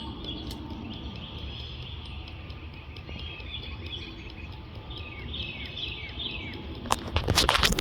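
A small bird chirping a series of short, quickly falling notes over a steady low outdoor rumble. Near the end comes a loud burst of rustling and knocks.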